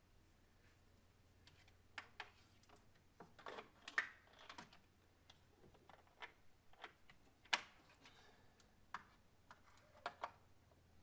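Irregular small clicks and taps of hard plastic and tools being worked at by hand, as a plastic line clip is pried at, with two sharper clicks standing out.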